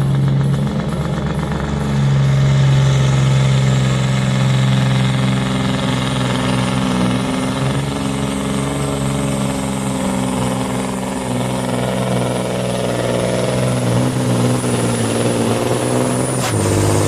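Supersport pulling truck's diesel engine running hard and steady, with a high turbo whistle that rises and then holds. A sharp burst near the end, after which the whistle falls away.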